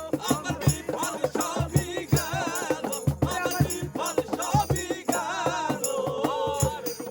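Instrumental passage of a Bengali folk song: a melody line with strong vibrato over a steady drum beat and a shaker or rattle.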